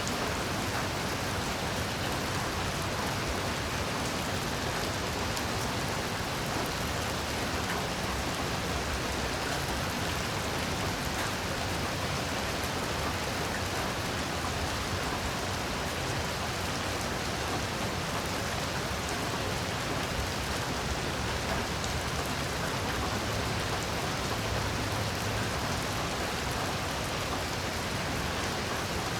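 Heavy rain falling steadily: a dense, even hiss of rain with scattered individual drops ticking through it.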